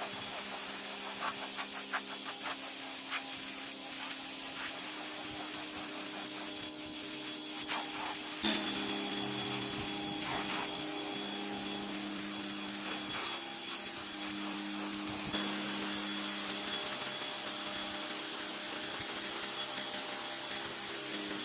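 Electric pressure washer running and spraying: a steady hiss of the water jet with a humming tone under it that shifts a couple of times.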